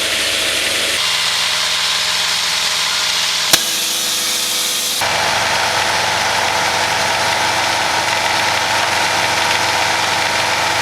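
Engine of a Pezzolato mobile sawmill running steadily. The sound changes abruptly about a second in and again about five seconds in, with a single sharp click about three and a half seconds in.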